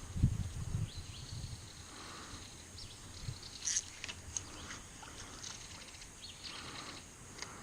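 Creek-side ambience: birds giving short high chirps now and then over a faint, steady, high insect drone. A few low thumps in the first second and a half, the loudest just after the start, are the kayak or gear being handled.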